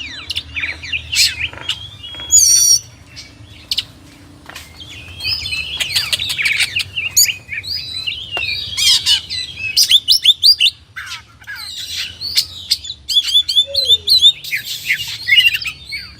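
Oriental magpie-robin (kacer) singing a rapid, varied song of chirps, clicks, trills and short whistles. There is a brief lull a few seconds in.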